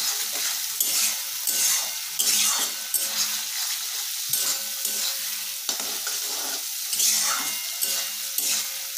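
Potatoes and tomato masala sizzling in hot oil in a kadai, with a spatula stirring and scraping through the pan in repeated strokes while the tomatoes fry down to soften.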